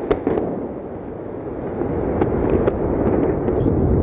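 Rocket blast: a deep, dense rumble with sharp crackling pops, a few near the start and more about two seconds in. The rumble swells louder toward the end.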